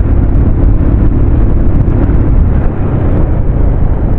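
Motorcycle engine running while riding, mixed with heavy wind buffeting on the microphone, a loud steady rumble.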